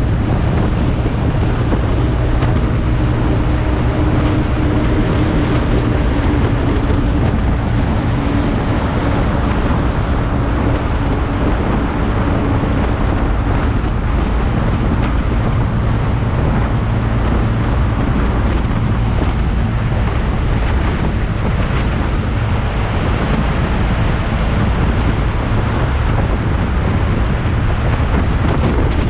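Motorcycle running at steady road speed, its engine mixed with the rush of wind and road noise, steady and loud throughout.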